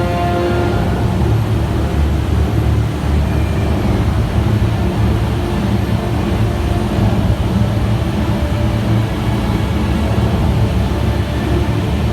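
Steady, loud rumbling roar of the Rain Vortex, the indoor waterfall at Jewel Changi Airport, heavy in the low end. The last sustained notes of the show music fade out about a second in.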